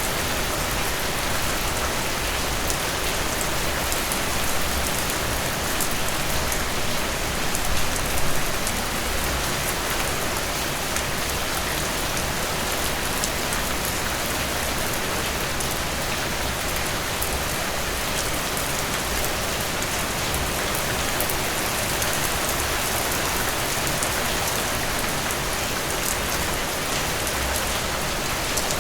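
Steady rain falling on a surface, a dense even hiss with fine patter of individual drops.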